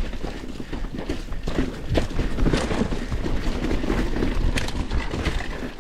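Mountain bike rolling fast over a rough dirt trail: knobby tyres rumbling and the bike rattling with many small knocks over roots and rocks.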